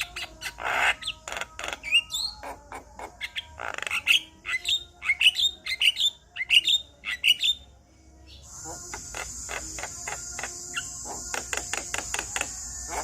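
Male Javan myna singing: a busy run of sharp clicks and short rising whistled notes, then from about eight and a half seconds in a steady harsh hiss mixed with rapid clicking.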